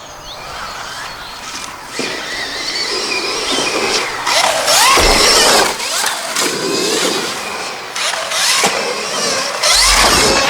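2024 Stark Varg electric motocross bike's electric motor whining, its pitch rising and falling with the throttle as it is ridden, with chain and dirt noise beneath. It is loudest about five seconds in and again near the end.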